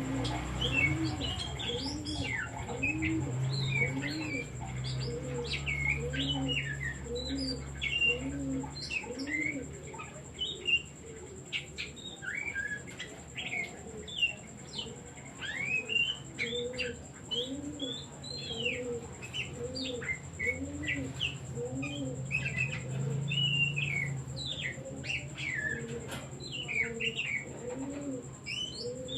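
Oriental magpie-robin (kacer) singing a fast, varied run of whistles, chirps and sweeping notes. Low cooing repeats steadily beneath it, about one and a half times a second.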